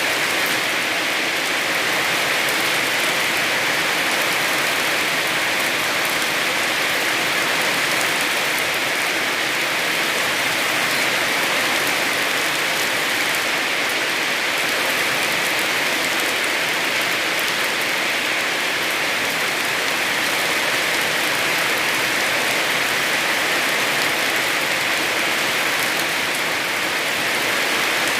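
Heavy rain falling in a steady downpour, an even hiss of drops with no let-up.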